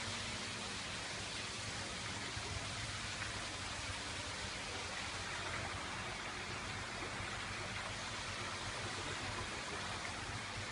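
Steady rush of water falling and splashing from a decorative artificial waterfall.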